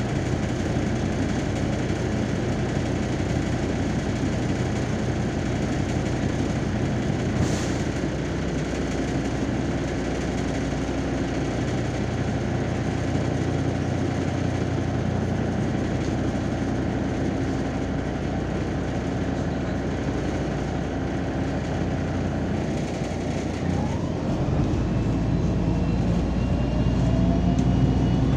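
MAZ-203 city bus under way, heard from inside: steady diesel engine and road noise. A short click comes about seven seconds in. Near the end, a rising whine climbs in pitch as the bus accelerates.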